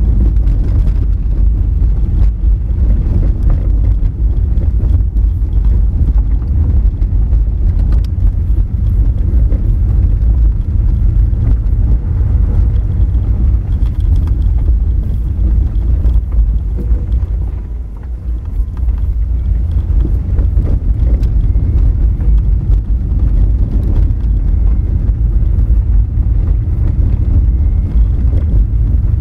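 Honda Fit driving over a rough, rocky gravel road: a continuous heavy rumble of tyres and suspension on loose stones, with scattered small knocks. It eases briefly a little past halfway, then picks up again.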